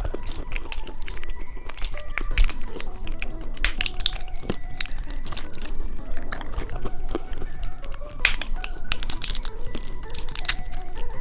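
Close-miked crinkles and sharp clicks of bug-shaped gummy candy and its packaging being handled, many small clicks spread throughout. Soft background music plays underneath.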